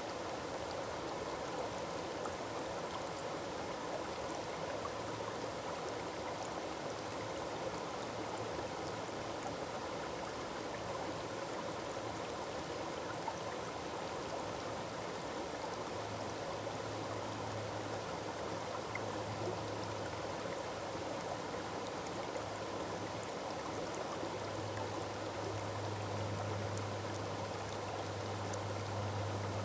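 Forest waterfall rushing steadily, water falling and splashing. A low steady hum joins in underneath, growing stronger in the second half.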